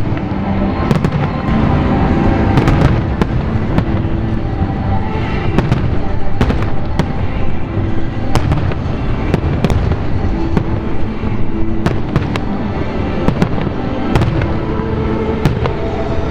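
Fireworks going off in quick succession: many sharp bangs and cracks, several a second, over music playing.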